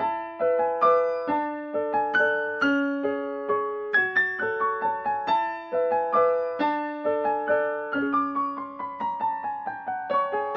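Piano music: a gentle melody of single struck notes, each ringing and fading, with a descending run of notes near the end.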